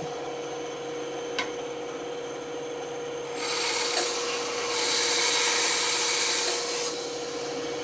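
Band saw running with a steady hum, its blade cutting through wood from about three and a half seconds in to about seven seconds, a louder hissing rasp, with a short click about a second and a half in.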